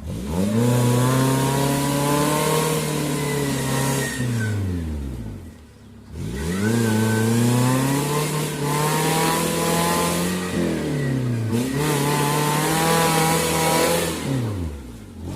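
Suzuki Jimny 4x4 engine revving hard in three long bursts. Each rises quickly, holds for a few seconds and falls away, with short lulls between them.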